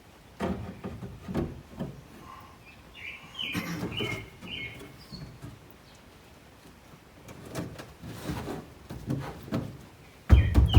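Handling noises from fitting interior panels and sound-deadening sheets in a car body: bursts of rustling and light knocks in three spells, with a few short high bird chirps about three to four and a half seconds in.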